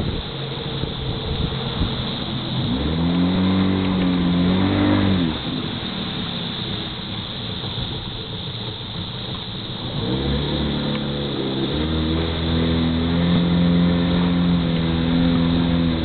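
A riverboat's motor running under way over a steady rush of wind and water. Its pitch rises about three seconds in and falls away near five seconds, then rises again about ten seconds in and holds steady.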